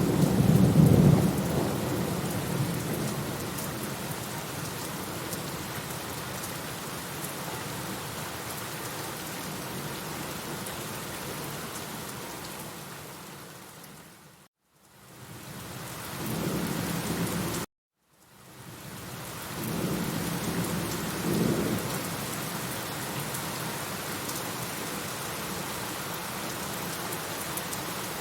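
Steady heavy rain with rolling thunder: a loud rumble at the start that dies away, then further rumbles past the middle. The sound briefly fades and cuts out to silence twice about halfway through.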